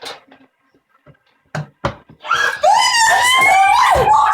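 A few short knocks, then about two seconds in a person lets out a loud, high-pitched scream that slides up and down in pitch for about two seconds.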